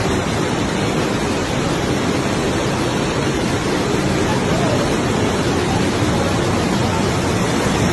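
Loud, steady rush of fast-flowing floodwater, an even noise with no let-up.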